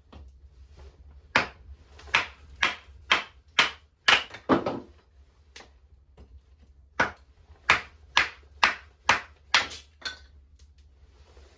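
Two runs of sharp knocks, about two a second: seven strikes, a pause of about two seconds, then seven more.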